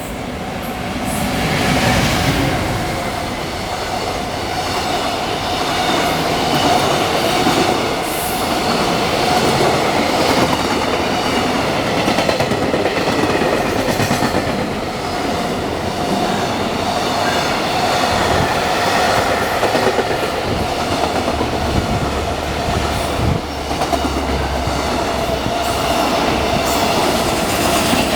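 Freight train running past, its wheels on the rails making a steady noise, with a held tone running through it.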